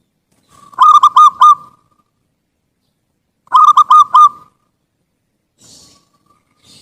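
Zebra dove (perkutut) cooing: two loud phrases of about four quick notes each, about three seconds apart.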